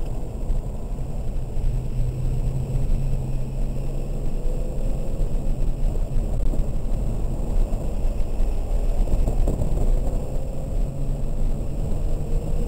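2003 BMW 330i ZHP's straight-six engine running hard on track, heard from inside the cabin over steady wet-road tyre noise. The engine note climbs several times as the car accelerates out of corners.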